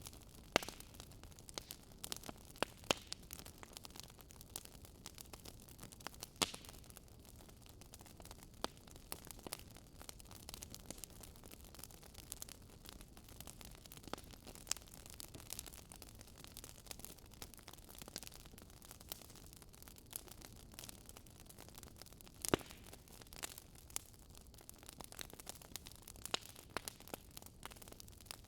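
Wood fire crackling: a soft steady hiss with irregular sharp pops and snaps, a few of them louder than the rest.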